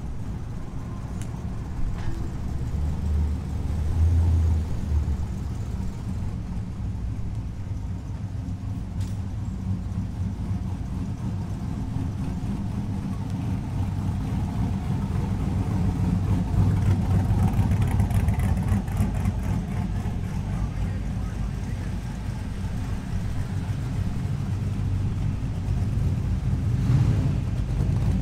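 Car engines running with a low, continuous rumble. The rumble swells louder about halfway through and again near the end as cars roll slowly past.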